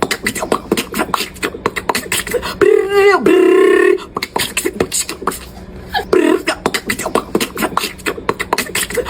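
A person imitating fireworks with the mouth, beatbox-style: rapid pops and clicks, then a whistling glide about three seconds in that runs into a held tone for about a second, then more quick pops.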